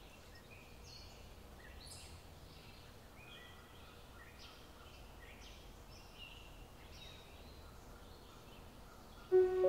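Faint birds chirping: many short, high calls scattered over a low steady hush. Music comes in loudly just before the end.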